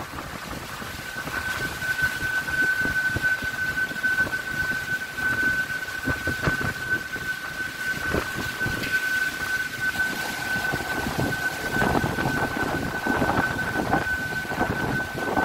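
Strong gusting wind with rain, the gusts buffeting the microphone. A steady high whistle starts about a second in and holds without changing pitch.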